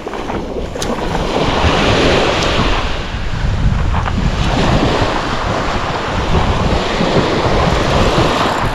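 Wind buffeting the microphone together with sea water washing around a kayak: a steady rush that swells and eases every few seconds.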